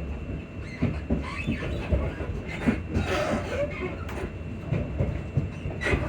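Class 334 electric multiple unit running, heard from on board: a steady low rumble with irregular knocks and clatter, and short squeaks from the suspension, the sharpest one near the end.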